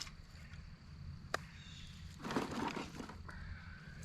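Firewood being dropped into a fire pit: a couple of sharp knocks of wood on wood, then a short crunching clatter about two seconds in.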